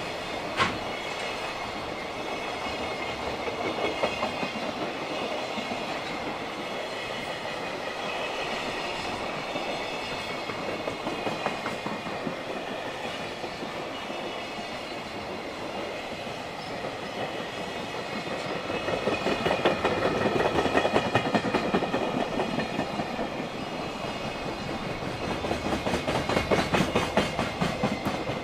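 A long container freight train rolls past at speed, its wheels clattering steadily over the rail joints, louder in stretches. Level-crossing alarm bells ring throughout.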